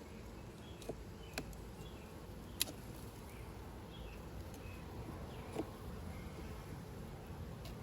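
Honeybees buzzing around an open hive, faint and steady, with a few sharp clicks, the loudest about two and a half seconds in.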